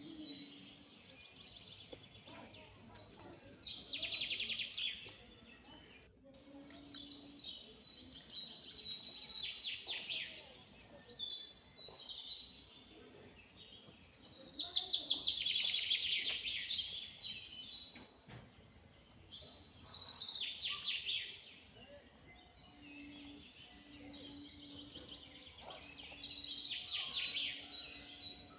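Birds calling, with about seven chattering phrases of one to two seconds each, a few seconds apart, over faint background noise.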